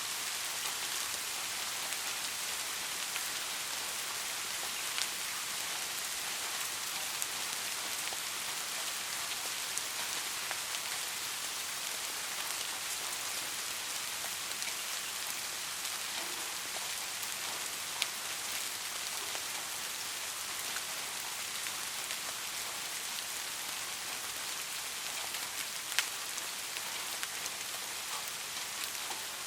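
Steady rain falling as an even hiss, with a few sharp single ticks standing out now and then.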